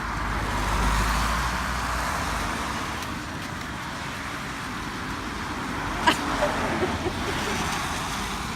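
A car passing on a wet road: a tyre hiss and low engine rumble that build to their loudest about a second in, then fade away. A single sharp click about six seconds in.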